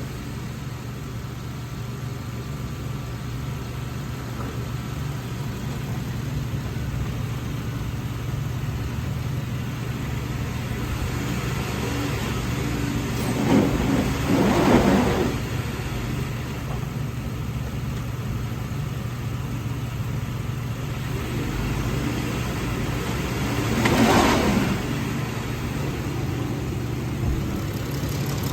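2014 Dodge Journey's 3.6-litre Pentastar V6 running steadily at idle for an engine test, revved briefly twice: once about halfway through and again some ten seconds later.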